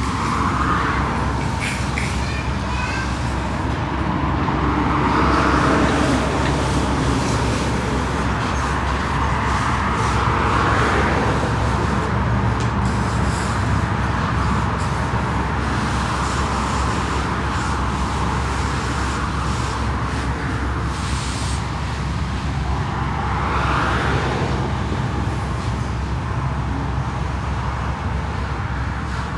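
Steady motor hum with a rushing noise that swells and fades every few seconds.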